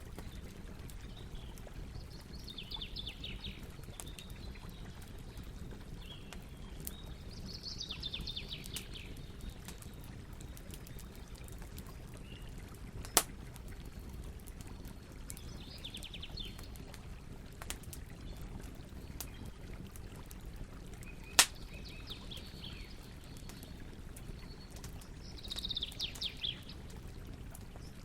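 Campfire burning with a steady low rumble and scattered crackles, and two sharp loud pops. Birds sing short trilled phrases about five times over it.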